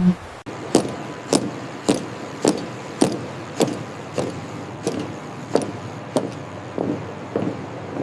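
A single thump, then a steady series of sharp knocks, a little under two a second.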